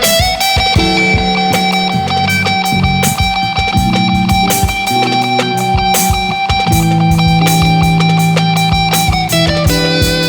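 Instrumental rock band music: an electric guitar bends up into one long sustained note and holds it for about nine seconds over a moving bass line and drums.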